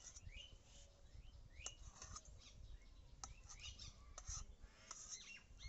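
Faint chirping of small birds, with a few light clicks of a knife touching a steel plate as it cuts through pieces of steamed egg.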